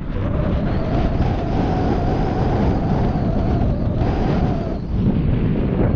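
Wind buffeting the microphone as a heavy low rumble, with a steady motor drone running through most of it and cutting out a little before the end.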